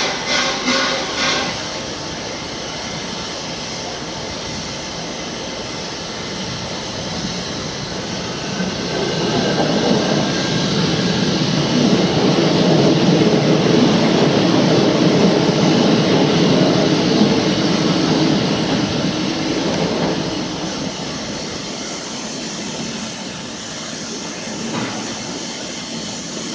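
A standing steam locomotive hissing steadily, with a multiple-unit passenger train passing close by from about 8 seconds in: its rumble swells, holds for several seconds and fades away by about 20 seconds, leaving the steam hiss.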